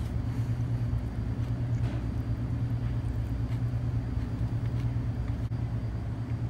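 Steady low rumble with a few faint, short clicks now and then.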